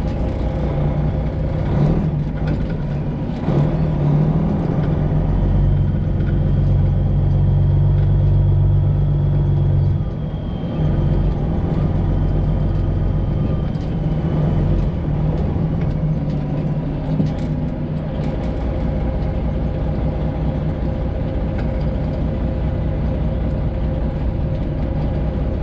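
Detroit Diesel 12.7-litre Series 60 engine of a semi truck running steadily. It gets louder for a few seconds in the first half, then settles back.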